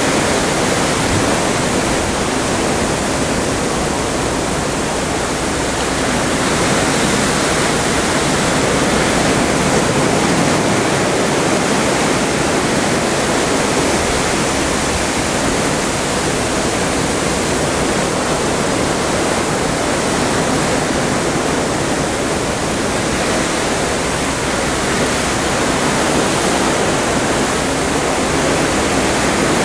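Atlantic sea water rushing alongside a moving cruise ship: a steady, loud wash that swells and eases gently.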